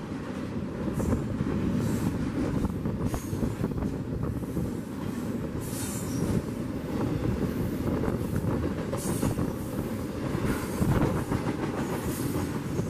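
Train rolling past: a steady rumble of wheels on rails, with scattered clicks and several brief high-pitched wheel squeals.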